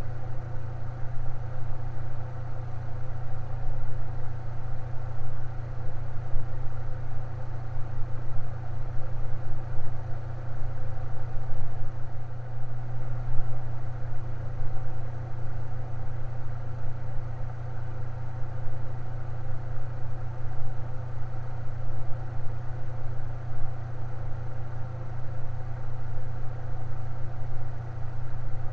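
Fan running steadily: a strong low hum with fainter steady tones above it.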